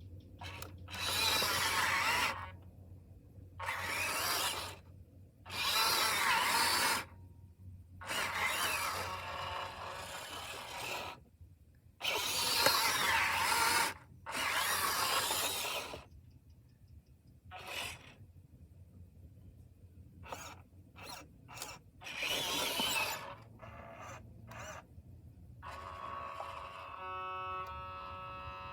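Radio-controlled truck's electric motor and gears whirring in repeated bursts of one to two seconds with short pauses between, then a few short clicks, and a steady whine near the end.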